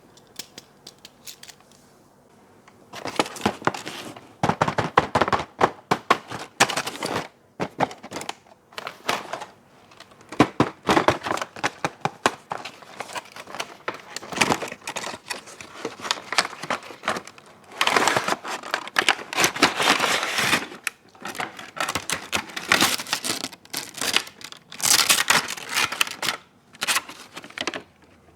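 Packaging crinkled and torn open by hand, in dense crackling bursts with short pauses, starting about three seconds in.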